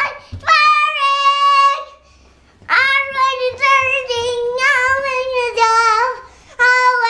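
A young child singing unaccompanied, holding long high notes in phrases, with a short break about two seconds in.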